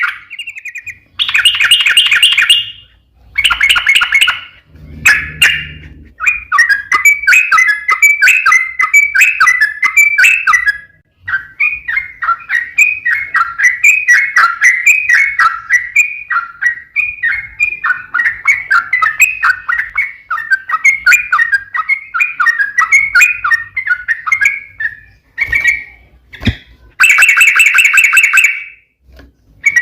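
Yellow-vented bulbul (trucukan) singing in rapid chattering phrases: a few short bursts, then one long unbroken run of quick notes lasting nearly twenty seconds, then another short burst near the end.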